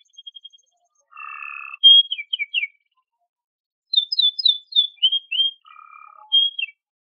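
Domestic canary singing in short phrases: buzzy, rattling rolls alternating with quick runs of falling whistled notes, with brief pauses between phrases. The song stops shortly before the end.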